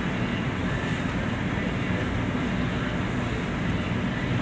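Steady low rumble of machinery-like background noise with no distinct events.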